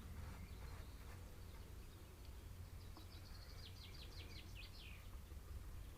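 A small garden bird calling a quick run of about eight high chirps about halfway through, over a steady low outdoor rumble.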